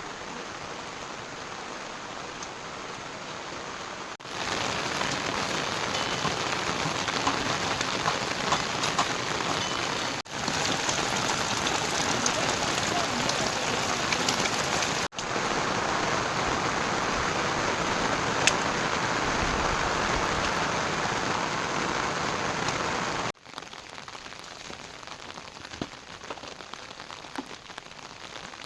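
Heavy rain falling steadily on surfaces, a dense even patter. It changes abruptly in loudness several times: quieter for the first few seconds, louder through the middle, and quieter again near the end.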